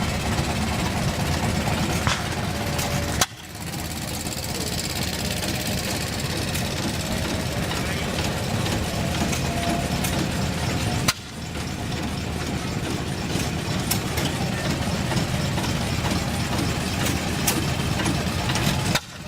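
Several hit-and-miss gas engines running, a steady low chugging with scattered sharp pops and hissing. The sound breaks off abruptly twice and picks up again.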